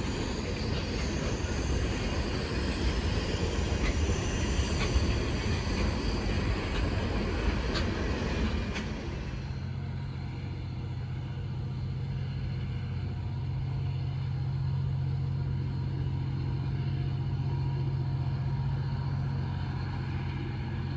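Freight train rolling past, a steady rumble with a few sharp clicks from the wheels and rail. About nine and a half seconds in the sound changes abruptly to a steady low engine hum.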